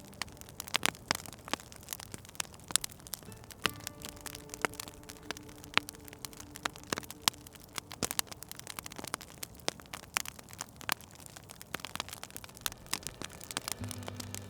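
Wood fire crackling in a fireplace: irregular sharp pops and snaps, several a second, over a soft hiss.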